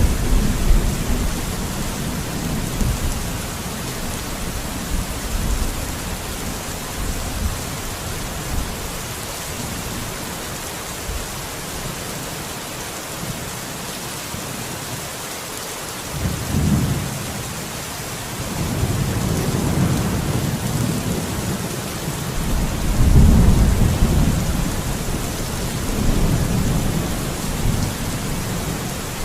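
Steady heavy rain hissing, with thunder rumbling low underneath in several rolling swells, the strongest about two-thirds of the way through.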